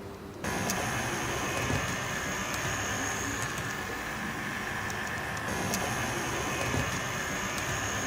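Model train running on track: a small electric motor whining thinly, with scattered clicks of the wheels over the rails. It comes in suddenly about half a second in, and the whine drops out for a couple of seconds in the middle and then returns.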